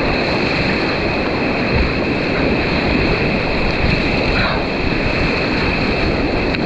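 Loud, steady rush of whitewater around a kayak, with wind buffeting the action camera's microphone.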